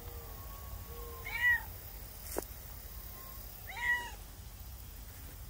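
A cat meowing twice, once about a second and a half in and again near four seconds, with a single sharp click between the two meows.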